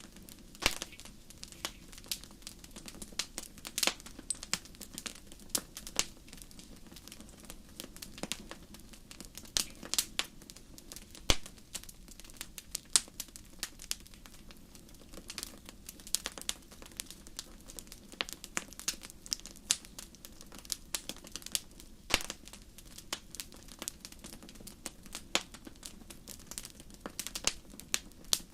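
Wood campfire crackling, with irregular sharp snaps and pops, several a second, over a low steady hiss of burning.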